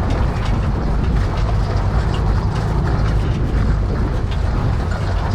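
1950s VW split-window bus driving over a rough, bumpy dirt track: its air-cooled flat-four engine drones steadily while the body and loose gear rattle and click over the bumps.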